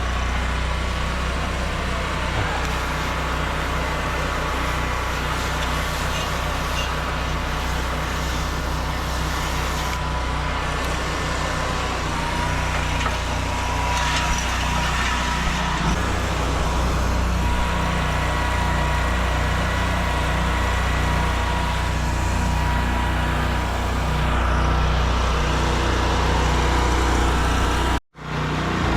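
Gasoline engine of a pressure-washing machine running steadily at a constant speed, with a brief dropout near the end.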